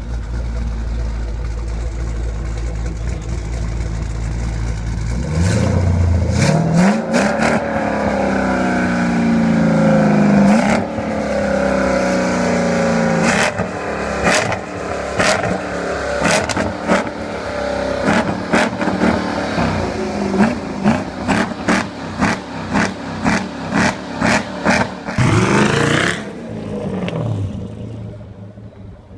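Jeep engine through an aftermarket tuned exhaust, idling steadily at first and then revved: a few rising and falling revs, followed by a long run of quick throttle blips with sharp cracks, ending with one last rev that falls away to a quieter idle near the end.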